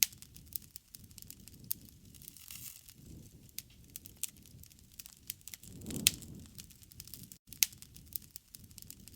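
Campfire burning: irregular crackling with sharp pops of the burning wood over a low rumble of the flames. The loudest pops come at the very start and about six seconds in, and the sound drops out completely for an instant just before the end.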